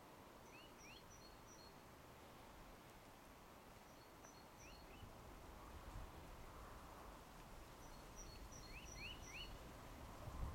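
Near silence outdoors, with a small bird calling faintly: three short bursts of high chirps and quick rising notes, a few seconds apart. A low rumble grows in the second half.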